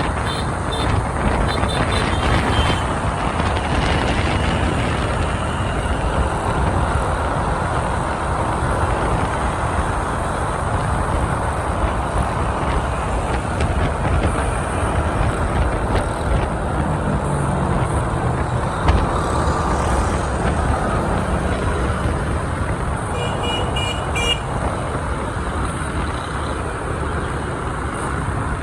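Motorbike ride through dense city scooter traffic: the steady noise of engines, tyres and wind, with short horn beeps near the start and again about five seconds before the end.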